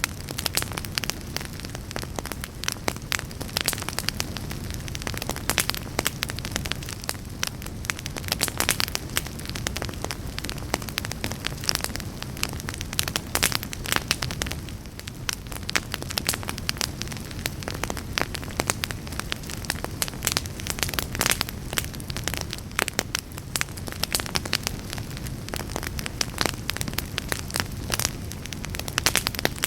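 Wood fire burning in a fireplace, with dense irregular crackling and popping over a steady low rumble of the flames.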